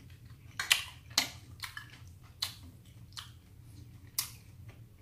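A person chewing fishballs with audible mouth clicks and lip smacks: about six sharp clicks at irregular intervals, the loudest in the first second or so.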